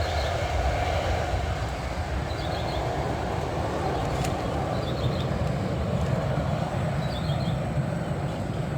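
Steady rumble and rushing air noise inside a passenger airliner's cabin, with faint short chirps about every two and a half seconds.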